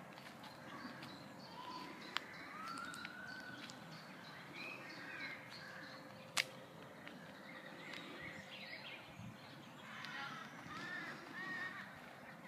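Birds singing and calling: short rising and falling chirps and warbled phrases over faint outdoor background noise. A few sharp clicks cut in, the loudest about six seconds in.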